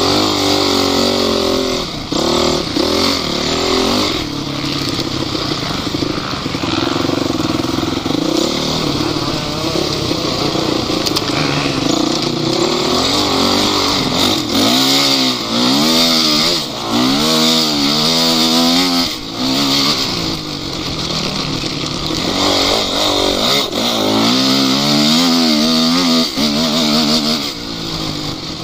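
Off-road vehicle engine running and revving in repeated surges, its pitch rising and falling several times from the middle of the stretch, then again near the end.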